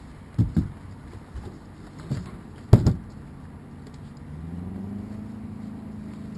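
A few sharp knocks and thumps, the loudest just under three seconds in. Then, a little over four seconds in, a boat engine comes in, rising briefly in pitch and then running steadily.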